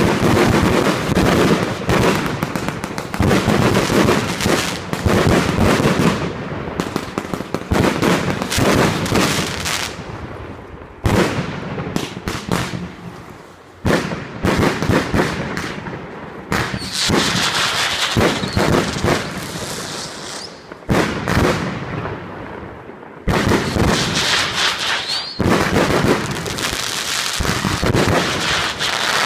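Fireworks display: a dense run of sharp bangs from bursting shells, with stretches of high crackling hiss between the louder bangs.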